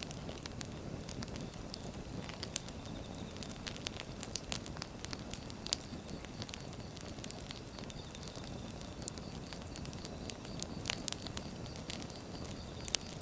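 Wood fire burning: a steady low rumble of flames with irregular sharp crackles and pops of the burning logs.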